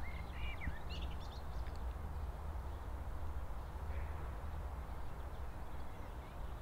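Birds chirping a few times in the first couple of seconds, over a steady low rumble.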